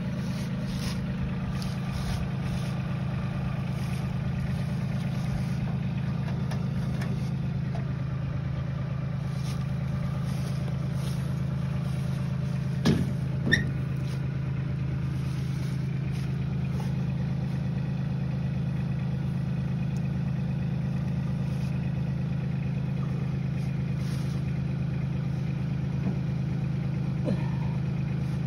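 An engine idling steadily, with two sharp knocks about half a second apart a little before halfway.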